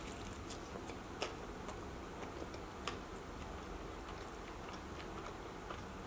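Close-up chewing of a soft meatball slider with a spaghetti bun and burrata: scattered faint mouth clicks over a low steady hum, with slightly louder clicks about a second in and near three seconds.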